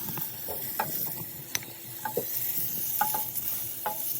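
Food sizzling in hot oil in a frying pan while being stirred, with a utensil clicking against the pan about five times.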